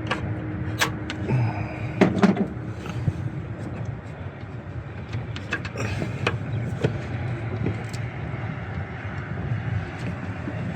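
Scattered sharp clicks and clinks of hand work on the engine bay's hoses and parts, over a steady low background rumble. The clearest knocks come about a second and two seconds in.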